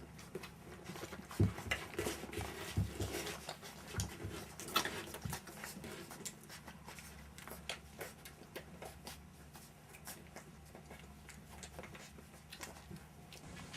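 A litter of one-month-old puppies playing: a busy scatter of small knocks, scuffles and paw scrabbling, thickest in the first five seconds or so and thinning out after.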